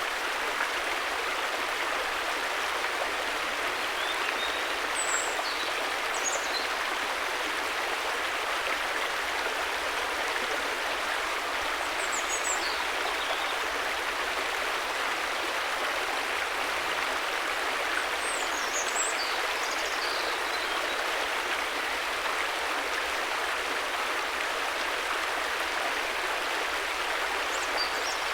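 River water flowing steadily, an even rushing with no breaks. Faint high chirps come through a few times.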